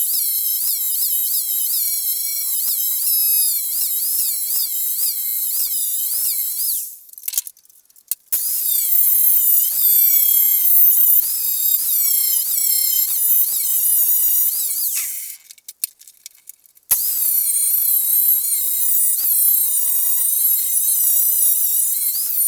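Small high-speed power tool whining, its pitch dipping and recovering a few times a second as it is loaded. It stops twice, briefly about 7 seconds in and again about 15 seconds in, before starting up again.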